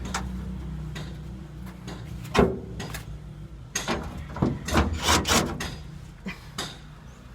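A series of sharp knocks and clatter over a steady low hum: one knock a couple of seconds in, then a quick run of them in the middle.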